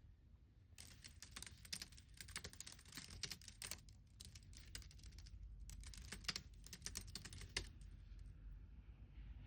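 Faint computer keyboard typing in quick runs of key clicks, with a short pause about four seconds in, trailing off near the end.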